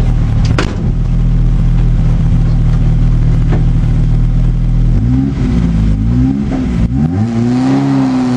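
Škoda 100 rally car's rear-mounted four-cylinder engine idling steadily, heard from inside the cabin, then revved up and down several times from about five seconds in, held at higher revs near the end, ready to launch at the stage start.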